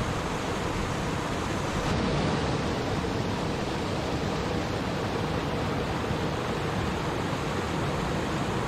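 Stream water running and babbling steadily.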